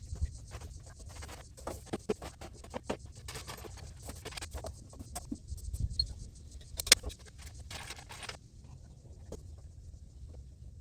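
Rapid, irregular clicks, taps and scrapes of hands and tools working on PEX plumbing, with a faint hiss that drops out about eight seconds in.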